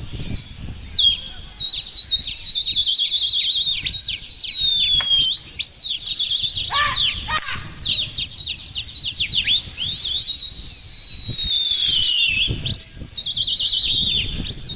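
Several people whistling loudly to drive up and steer flying pigeons, the piercing whistles pigeon fliers use. The whistles overlap almost without a break: long held notes, fast warbling trills and quick rising and falling sweeps.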